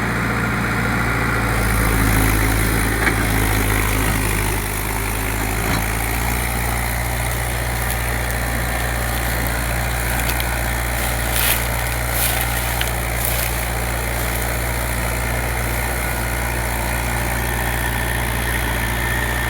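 Tractor's diesel engine idling steadily just after starting, running slightly faster for the first few seconds and settling into an even idle about four seconds in.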